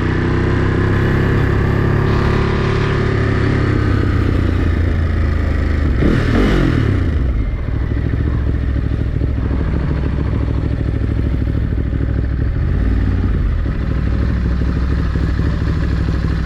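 Ducati Monster 937's L-twin engine running under way as the motorcycle is ridden, its pitch rising and falling with the throttle, along with road and wind noise.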